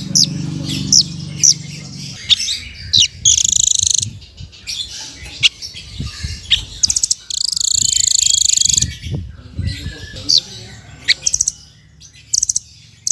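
A songbird singing a fast, varied song of sharp sweeping whistles and chirps, with two longer buzzy trills about four seconds apart. It is a masteran tutor song, the recording played to other songbirds so they learn it. A low hum runs under the first two seconds.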